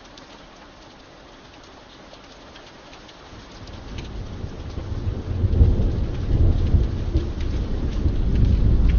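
Rain falling steadily, with scattered ticks of single drops. About three and a half seconds in, a low rumble of thunder builds and rolls on, becoming the loudest sound.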